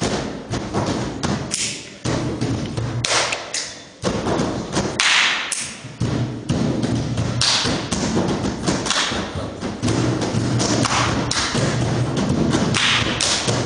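A live percussion performance: fast, rhythmic knocking thumps and taps, punctuated every second or two by bright crashing splashes, growing denser and more continuous partway through.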